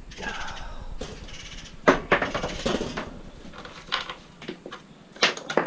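Pieces of scrap metal clanking as they are handled and dropped, a few separate knocks with the loudest about two seconds in. A cat meows at the start.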